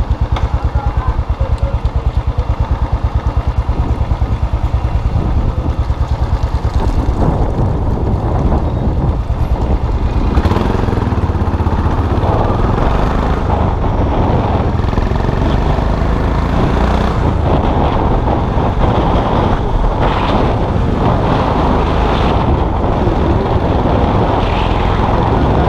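Custom motorcycle engine ticking over with even, regular firing pulses, then pulling away about seven seconds in and running steadily under way.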